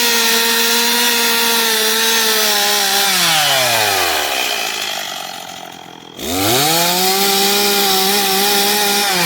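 Gas chainsaw run up to full throttle twice, each time held steady for about three seconds as it cuts into a wooden log, then let back down toward idle. Between the two cuts there is a short lull of about a second and a half.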